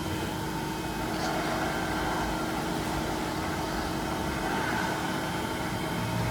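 TOS cylindrical grinding machine running with its hydraulics and grinding-wheel spindle on: a steady mechanical hum with a few steady tones over it. Near the end one tone stops and a lower hum comes in.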